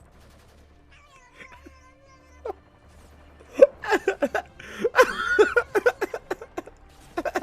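A cat meowing faintly, then breaking into a rapid string of loud, short yowls and cries from about three and a half seconds in.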